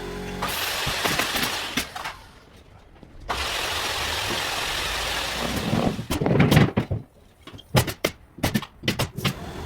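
Carpentry work: two stretches of loud, steady hissing from a power tool or air, then a run of sharp knocks near the end.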